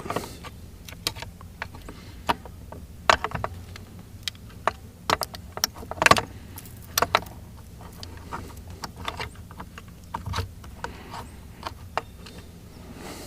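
Irregular small clicks and knocks of plastic and metal parts being handled while a Mercury boat remote control is taken apart, over a steady low hum.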